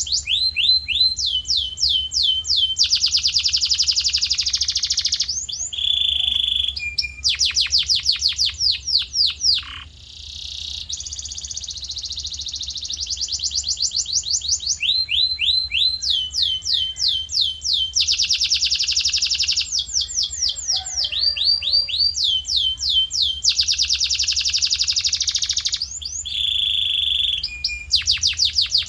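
Male domestic canary in full song: a long string of rapid trills, each a fast run of one note repeated many times before switching to another, with a short break about ten seconds in.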